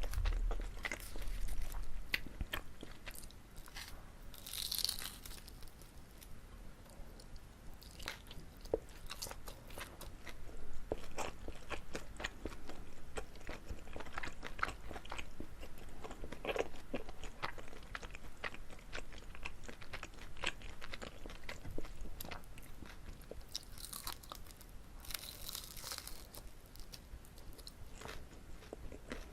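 Close-miked biting and chewing of chewy Korean rice cake (jijilku-tteok) filled with gondre greens: a run of wet mouth clicks and smacks, with two louder, noisier stretches, one about four seconds in and one near the end.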